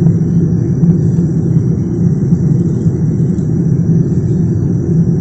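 Steady low rumble of jet engine and airflow noise inside an airliner's cabin.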